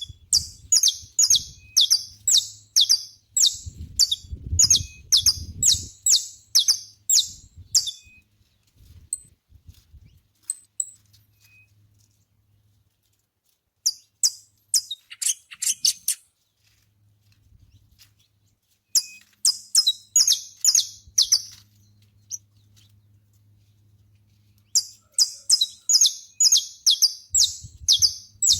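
Saffron finch singing in several runs of loud, sharp, rapidly repeated high notes, about two to three a second, with pauses of a few seconds between runs.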